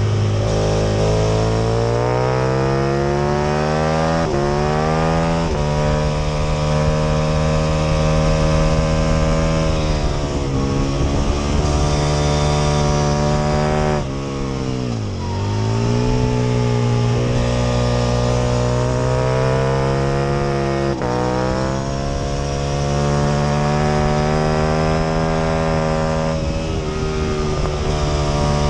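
Aprilia RSV Mille R's 998 cc V-twin engine at racing speed, revving up through the gears with sharp pitch drops at each upshift. About halfway through the revs fall away low, as for braking into a corner, then climb hard again. A similar dip comes near the end.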